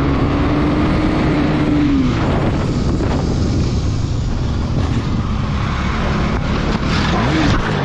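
Motorcycle engine running at speed with heavy wind noise on the microphone. Its pitch holds, then drops about two seconds in, and rises and falls briefly near the end.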